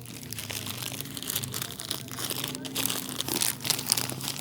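Plastic crinkling and rustling, dense and irregular, as a plastic raincoat and its wrapping are handled and unfolded.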